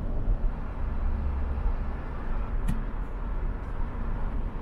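Car driving in city traffic, picked up by a dashcam: a steady low rumble of engine and tyre noise, with one sharp click a little past the middle.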